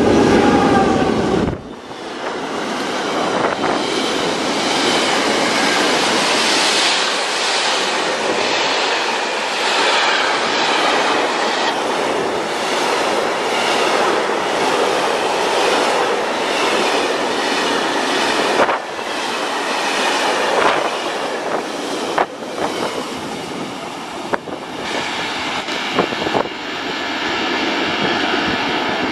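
Container wagons of a freight train rolling past at speed, wheels clattering on the rails. A loud low rumble drops away suddenly about two seconds in, leaving a steady rushing noise of the wagons running away down the line, with sharp clacks now and then.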